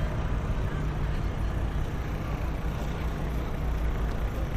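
City street ambience: a steady low rumble of traffic under an even background hiss, with no distinct events.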